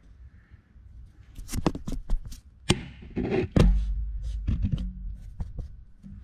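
Tools and metal parts being handled at a workbench: an irregular run of clicks and clanks, with one heavier thump about halfway through.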